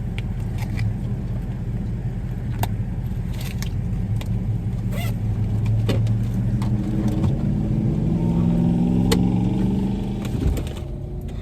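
Car engine and road rumble from inside a moving car, the engine note rising steadily as the car accelerates through the second half.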